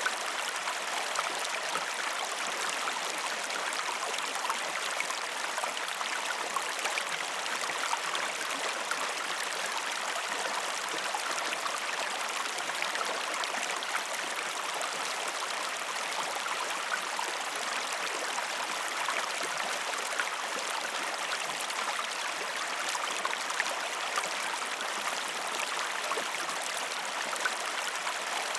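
Waterfall: a steady, even rush of falling water, bright and hissy with no deep rumble, flecked with fine splashes.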